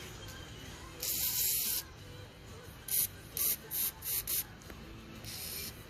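Bursts of pressurized spray hissing into the passages of a small-engine carburetor as it is cleaned out: one longer burst, then five short quick blasts, then another longer one.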